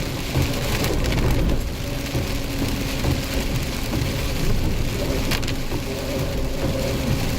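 Steady rain falling, with a vehicle running underneath and a single sharp click about five seconds in.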